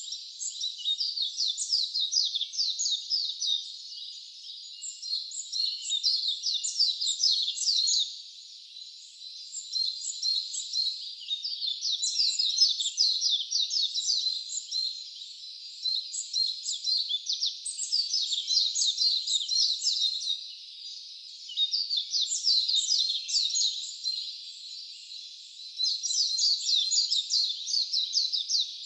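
Wild songbirds singing: quick runs of high, falling notes in repeated phrases a few seconds long, with short pauses between.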